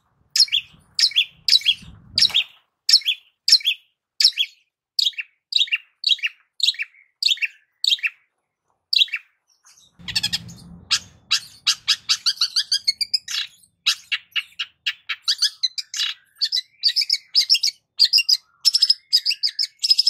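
Long-tailed shrike singing: a run of sharp, repeated high notes at about three a second, a short pause near the middle, then a faster, denser chattering song.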